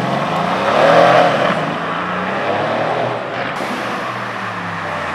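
A car engine revving as the car pulls away, rising in pitch and loudness to a peak about a second in, then running on steadily with another smaller rise near the three-second mark.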